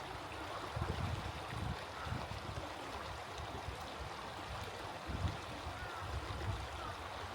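Small stream running over its bed, a steady rush of water, with uneven low rumbling underneath. A few faint short bird calls come through about two, six and seven seconds in.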